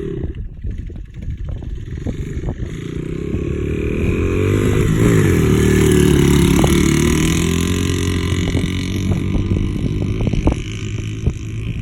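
Dirt bike engine approaching and passing close by about five seconds in, its pitch dropping as it goes past, then fading as it rides away. Scattered sharp clicks run throughout.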